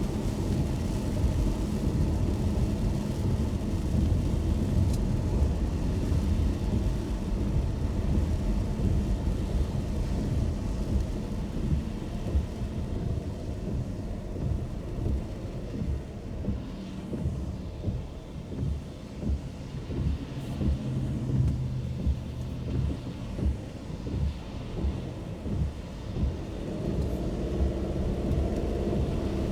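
Car driving in the rain, heard from inside: a steady low rumble of road and engine noise. In the second half it swells and dips about once a second.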